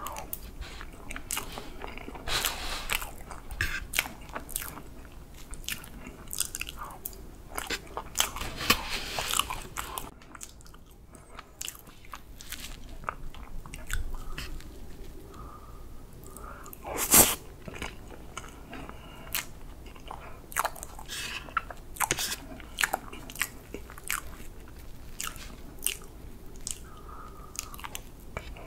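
Close-miked mouth chewing soft whipped-cream chocolate cake, with many short clicks of chewing. There is one sharper, louder click a little past the middle.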